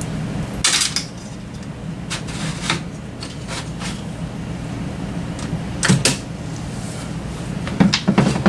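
Metal parts and tools being handled on a workbench: several short clanks and scrapes, spread irregularly, over a steady low hum.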